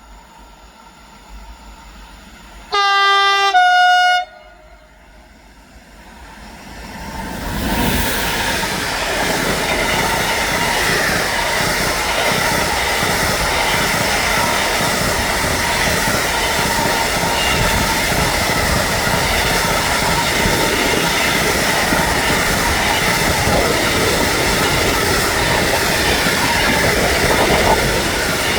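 A train blows a two-tone horn, a lower note then a higher one, about three seconds in, then comes up and runs past with a loud, steady rumble and clatter of wheels on the rails.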